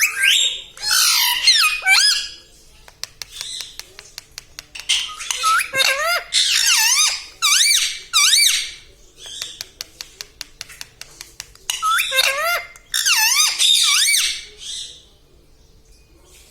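Pet parrot chattering and squawking in three bouts of warbling calls that waver up and down in pitch, with runs of rapid clicks between the bouts.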